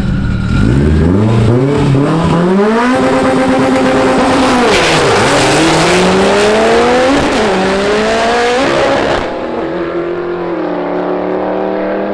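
Car engine revving hard as the car accelerates through several gear changes, its pitch climbing and dipping at each shift. About nine seconds in, the sound changes suddenly to a steadier, lower engine note.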